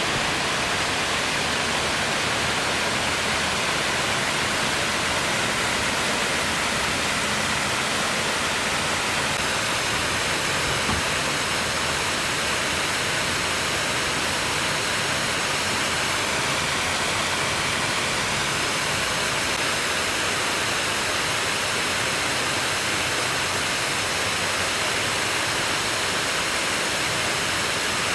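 Man-made waterfalls cascading down the rockwork of an artificial volcano: a steady, full rush of falling water with no break.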